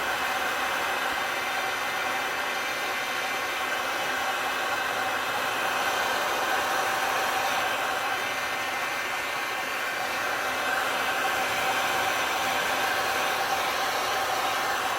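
Electric heat gun blowing steadily, a fan hum with rushing air, drying and setting a layer of alcohol ink.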